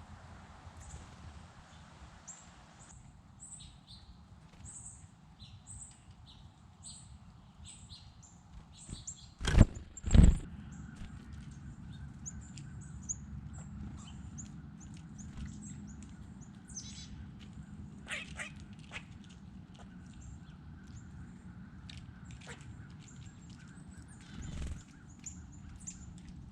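Small birds chirping in many short, high notes throughout. About ten seconds in come two loud thumps half a second apart, and a fainter one near the end.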